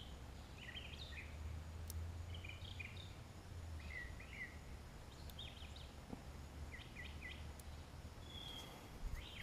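Small birds chirping in short clusters about every second and a half, over a steady low rumble.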